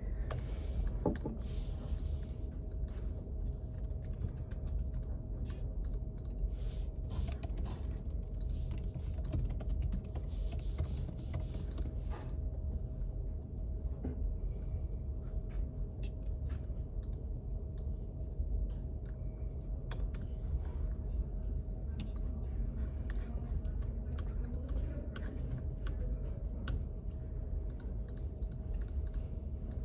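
Typing on a computer keyboard, rapid irregular key clicks that are busiest in the first half, over a steady low room rumble and a faint steady hum.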